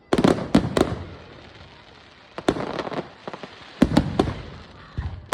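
Fireworks going off: quick volleys of sharp bangs and pops, each trailed by crackling. One cluster comes right at the start, another about two and a half seconds in, and a louder run of bangs about four seconds in.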